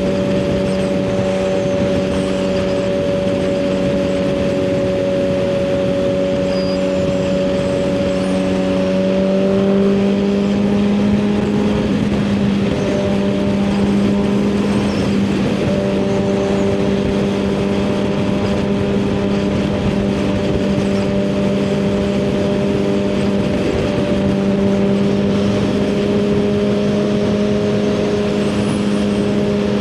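Suzuki GSX-R1000R inline-four with a full aftermarket exhaust, cruising at highway speed: a steady engine drone under wind noise on the microphone. The engine note steps up slightly about ten seconds in and dips briefly later on.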